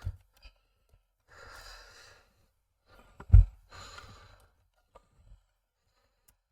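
A person sighing, two breathy exhales a couple of seconds apart, with a single sharp thump between them, the loudest sound, and a few light clicks.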